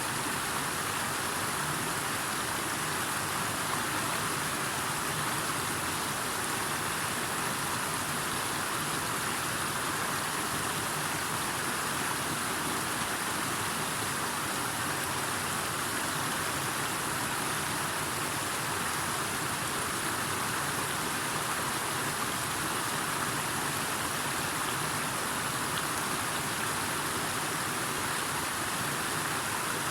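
Steady, unbroken rush of water, with no distinct drops or splashes.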